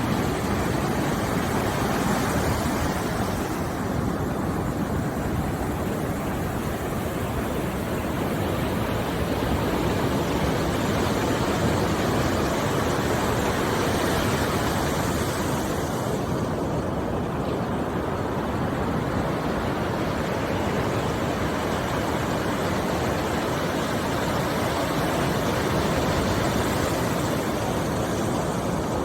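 Steady rushing noise of a relaxation soundscape, with no melody. It is fullest in the low and middle range and swells gently now and then.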